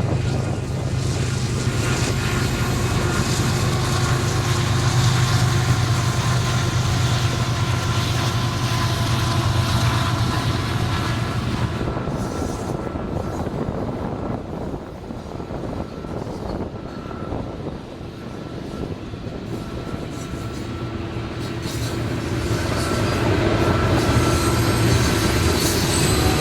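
CSX freight train rolling past, a continuous rumble with a steady low hum and faint thin squealing tones above it. The sound eases off around the middle and swells again near the end.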